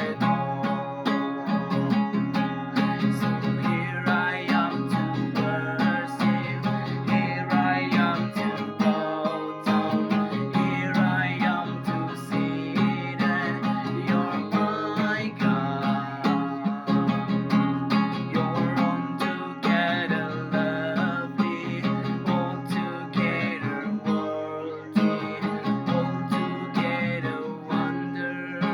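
Music led by an acoustic guitar, strummed to a steady beat.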